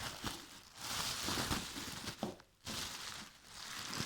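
Plastic packaging crinkling and rustling as it is handled, in irregular stretches with a brief pause about two and a half seconds in.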